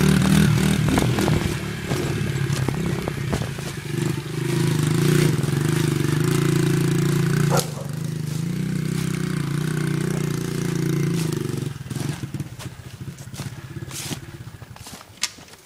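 Honda dirt bike engine running at a steady pitch as it moves off, briefly dropping about eight seconds in and fading away about twelve seconds in. Scattered scraping and clicking sounds follow near the end.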